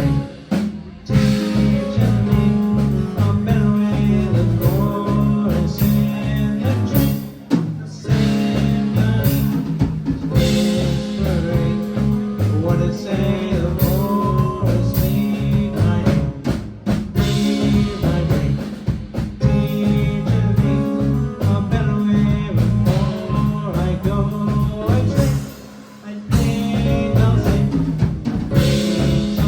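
Live band music with electric guitar, bass and a drum kit playing an instrumental passage with a steady beat; the band drops out briefly near the end before coming back in.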